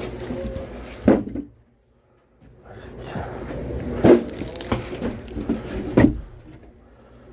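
A few sharp knocks, about a second, four and six seconds in, over rustling handling noise, with a short near-silent break after the first knock.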